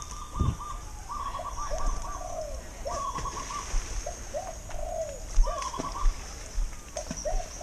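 Birds calling over and over: short trilled phrases alternate with lower, arched notes, several in each second, over a steady high hiss and a few low thumps.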